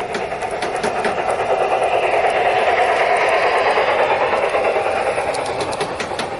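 G-scale model train running past: its small electric motor and wheels on the rails, a steady whirring rattle that swells to its loudest about halfway through and then fades.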